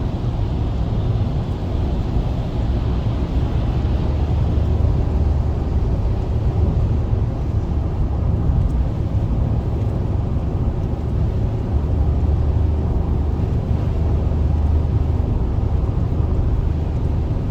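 Steady road and engine noise of a car cruising at highway speed, about 80 to 90 km/h, heard inside the cabin as a constant low rumble.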